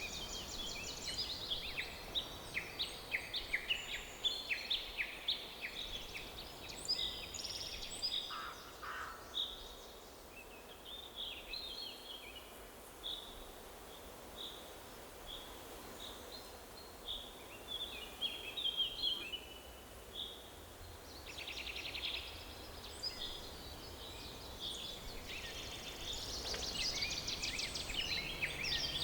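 Several songbirds singing and calling in a forest: dense overlapping chirps for the first several seconds, thinning to spaced single notes in the middle, a rapid trill about two-thirds through, then busier again near the end.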